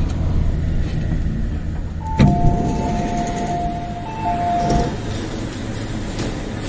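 MTR East Rail Line R-Train electric multiple unit coming to a stand in the station. A low running rumble dies away, a single clunk comes about two seconds in, and then a steady two-note high tone sounds for about three seconds, with a short break in the middle.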